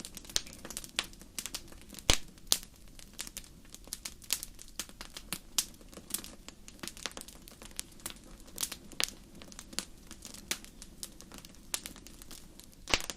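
Campfire crackling, with irregular sharp pops and snaps from the burning wood; the loudest pops come about two seconds in and near the end.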